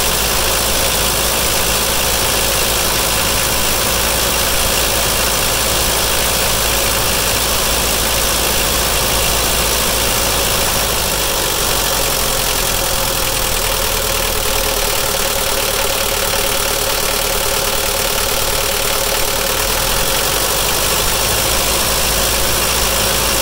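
Mercedes-Benz 240D four-cylinder diesel engine idling steadily, heard close up. The sound starts and stops abruptly.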